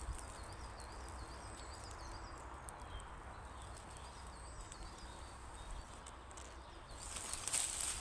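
Woodland ambience: a steady low rumble of wind with faint high chirping calls in the first few seconds, then rustling steps through undergrowth near the end.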